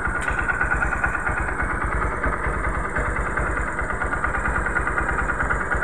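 Honda Mega Pro's single-cylinder four-stroke engine idling steadily.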